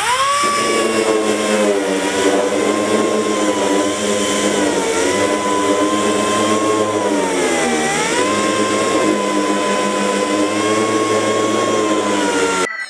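Power sander spinning up and running with a steady whine while sanding car bodywork; its pitch dips briefly about eight seconds in and recovers, and it cuts off suddenly just before the end.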